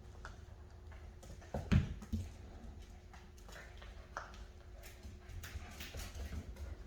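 Rottweiler puppies playing and scuffling, their paws and claws clicking and skittering on the floor, with a louder thump a little under two seconds in.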